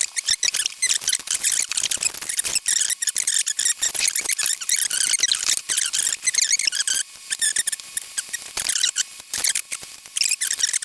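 Packaging being handled: dense, continuous crinkling and rustling of plastic wrap and paper, with a brief lull about two-thirds of the way through.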